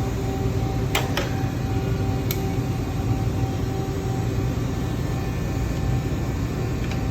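Indian Scout Bobber's 1133 cc liquid-cooled V-twin engine running steadily, with a few sharp clicks about a second and two seconds in.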